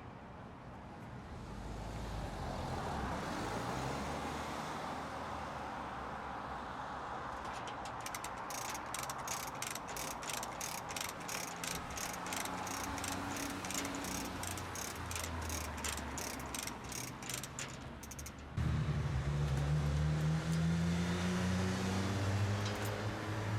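A ratchet mechanism clicking fast and evenly, about three or four clicks a second for some ten seconds, over a steady mechanical hum. Near the end a louder engine sound cuts in suddenly, its pitch rising.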